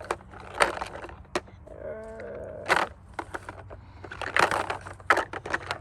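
Hard plastic toys, trucks and dinosaur figures, knocking and clattering together in a rapid irregular series of sharp clicks and knocks. A short pitched sound comes about two seconds in.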